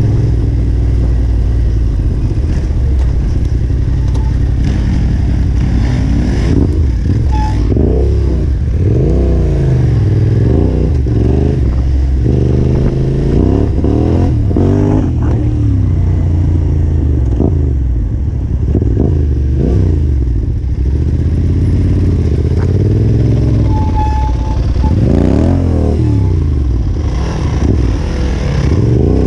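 Yamaha Ténéré 700's parallel-twin engine on a trail ride, revs rising and falling again and again as the throttle is worked, with occasional knocks and clatter from the bike over rough ground.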